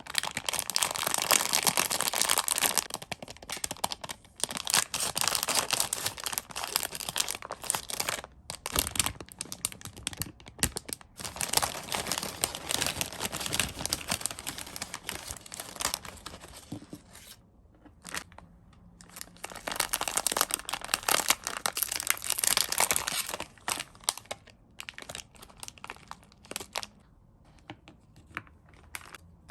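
Crinkly sweet and chocolate packaging being torn open and handled, in several long crackling bursts, with lighter clicks and rustles near the end.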